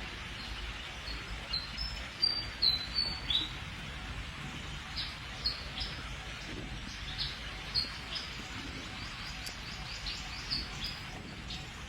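Birds chirping in short, high calls repeated irregularly, loudest in a quick run about two to three seconds in, over a steady outdoor hiss and low rumble.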